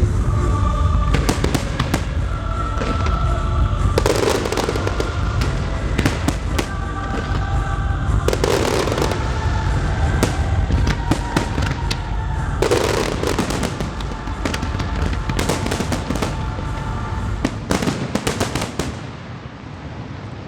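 Aerial fireworks display: a continuous run of bangs and crackling bursts over a low rumble, with heavier volleys about every four seconds. It eases off near the end.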